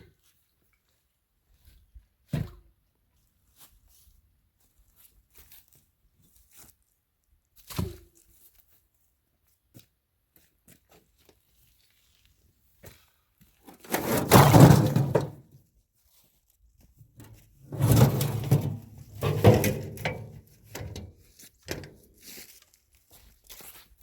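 Bricks being set down and pushed into place: two single thunks a few seconds apart, then louder, longer bouts of scraping and knocking in the second half.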